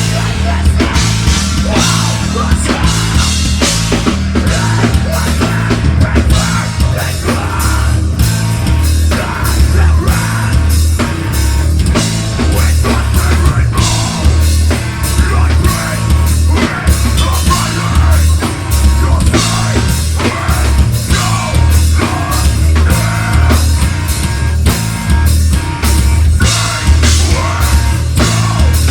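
Metal band playing live: distorted guitars, heavy bass and a pounding drum kit, continuous and loud.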